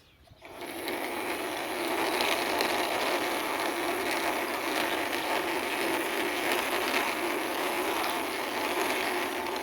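Toy tourist bus pushed along by hand, its wheels rolling steadily over the surface. Starts about half a second in and fades out near the end.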